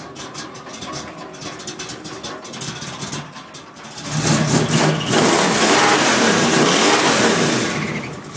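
Pickup truck engine idling with an uneven, loping beat from a lopey cam, then revved up about four seconds in and held high for about three seconds before dropping back near the end.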